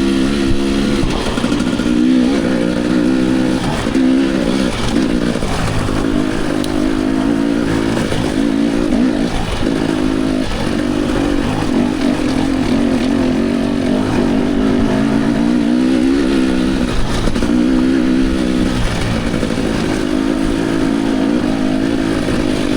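Dirt bike engine being ridden hard, its pitch rising and falling over and over as the throttle opens and closes and the gears change.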